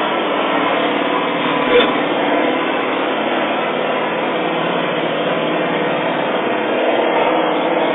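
Engine running steadily and loudly shortly after a cold start, with a short sharp click about two seconds in.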